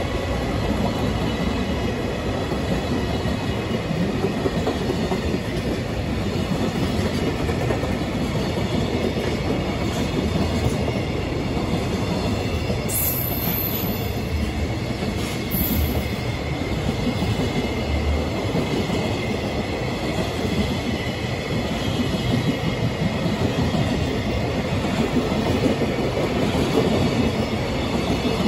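Freight train's container wagons rolling past at speed, a steady rumble with the clickety-clack of wheels over rail joints, and two brief high squeals around the middle.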